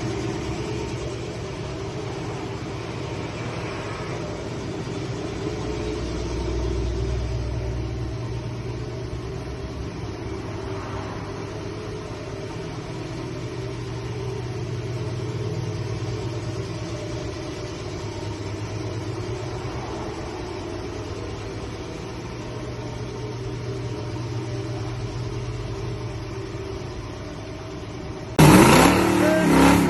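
Muscle-car V8 engine idling with a steady rumble and slight swells in level. About two seconds before the end it cuts to a much louder engine revving.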